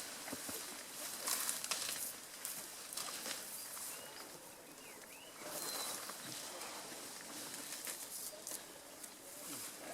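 Dense forest vegetation rustling and crackling as people clamber through it, in uneven bursts, with a few faint bird chirps around the middle.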